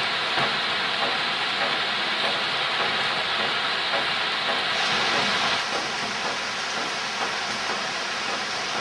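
Heavy monsoon rain falling steadily on trees and foliage, a dense, even hiss. It drops slightly in level about five and a half seconds in.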